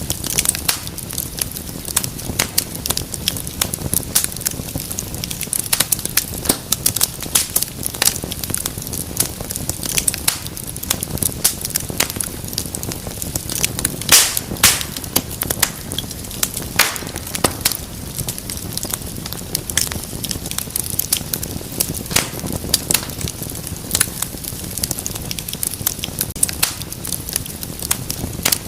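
Wood fire burning with a steady low rumble and hiss, crackling with frequent irregular pops; the loudest pop comes about halfway through.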